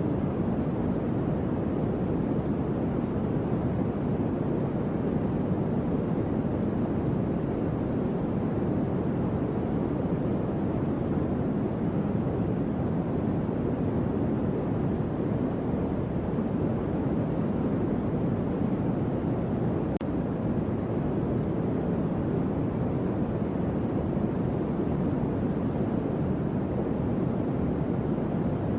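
Electric fan running steadily: an even, deep rush of moving air with no audible motor hum or rattle.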